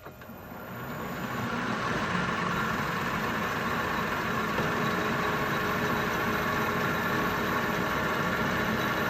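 Metal-turning lathe starting up, its motor and gear train building over about two seconds and then running steadily with a mechanical hum.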